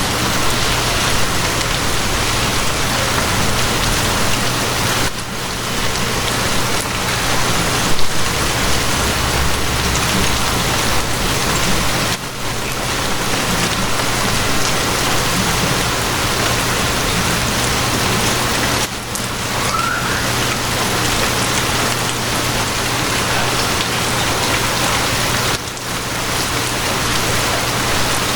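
Heavy rain falling steadily, a dense even hiss over a steady low hum, dipping briefly in level about every seven seconds.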